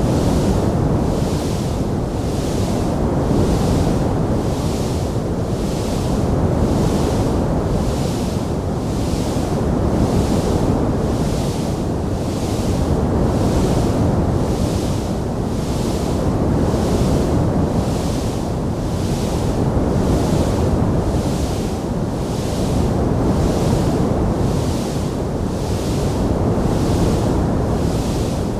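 Steady low noise of a burning fireplace fire, with a hiss that swells and fades about once a second and no distinct crackles or pops standing out.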